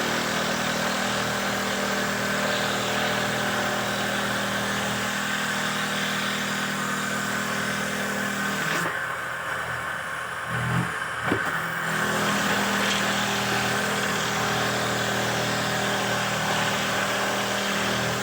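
Handmade wooden-dowel machine running steadily with a motor hum. A little before the middle the sound drops away for about three seconds, with a couple of short knocks, then the machine runs on as before.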